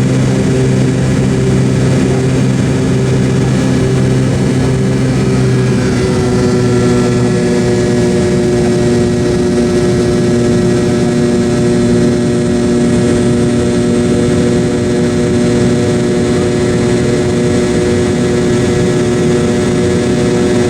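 McDonnell Douglas MD-88 jet engines heard from inside the passenger cabin: a steady loud rush with several humming tones. About six seconds in, the lowest hum drops out and the tones shift to a new pitch, as when engine power changes.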